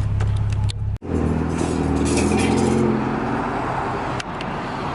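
A car's engine and road noise, broken by an abrupt cut about a second in, then an even noisy hum.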